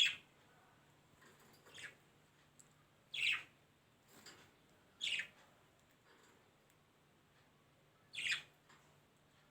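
A bird calling: single short chirps that sweep downward in pitch, four loud ones one to three seconds apart with a couple of fainter ones between.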